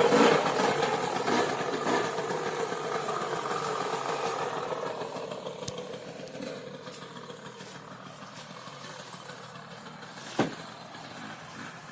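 Two-stroke mini motorbike engine running, fading steadily over the first several seconds until it is faint. A single sharp knock about ten seconds in.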